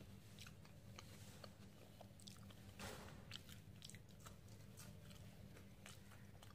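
Faint chewing, with scattered small mouth clicks, of someone eating rice and fried potato by hand, over a low steady hum, with one brief louder noise about three seconds in.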